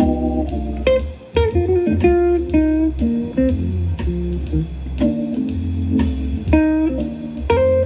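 Blues-style electric guitar music with a steady bass line, played back through a portable Bluetooth speaker for a sound test.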